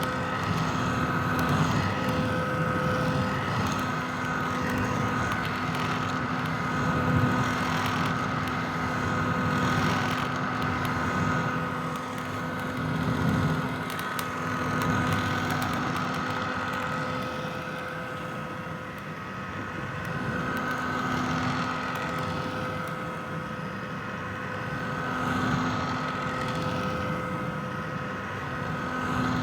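Vintage hair dryer running continuously: a steady rush of blown air with a constant whine from its fan motor, the loudness swelling and easing only slightly.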